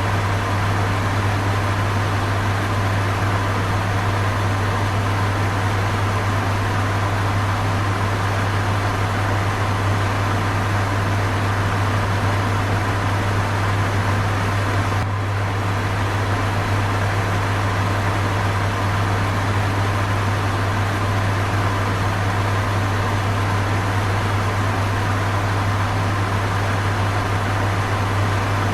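Electric fan running steadily: a strong low hum under an even airy rushing noise, with a brief slight dip about halfway through.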